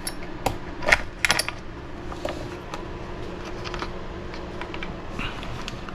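Small hard plastic and metal parts clicking and clinking as they are handled on a workbench: a few sharp clicks in the first second and a half, then only faint small handling sounds.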